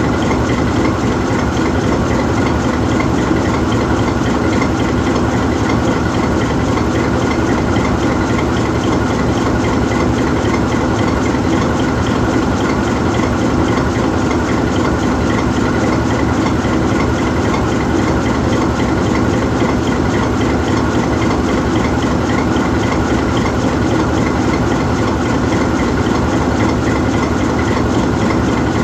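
GE U20C diesel-electric locomotive standing still, its V8 diesel engine idling steadily without change.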